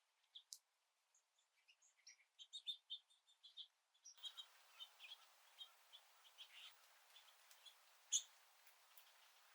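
Faint chirping of small songbirds: many short, high chirps and tweets, with a light background hiss that rises about four seconds in.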